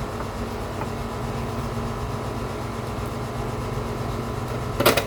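Steady mechanical hum of room machinery, with a brief clatter of a part or tool being handled near the end.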